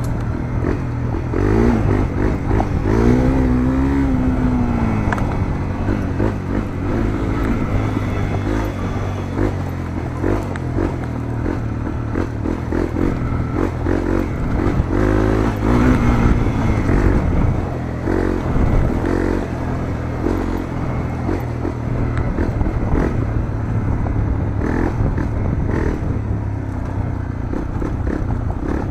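Honda CRF250L's single-cylinder four-stroke engine through a Moriwaki aftermarket muffler, heard onboard while riding: the revs rise and fall again and again as the rider accelerates, shifts and backs off.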